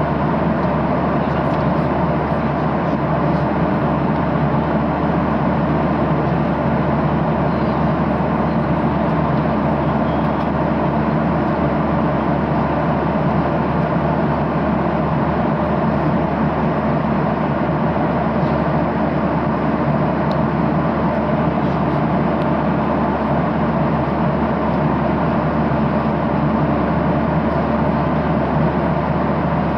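Steady cabin noise of a Boeing 737-800 in flight: the even drone of its CFM56-7B engines mixed with rushing airflow.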